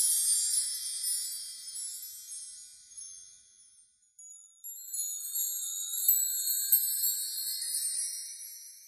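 High, tinkling chime shimmer in two swells. The first fades away over about four seconds; the second begins about four and a half seconds in and fades out near the end.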